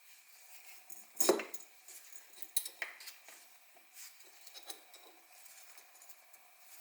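Light metal clinks and knocks from handling parts of a Honda CRF50 engine's top end as the cylinder is slid down over the piston and studs. The loudest knock comes about a second in, followed by several lighter clinks.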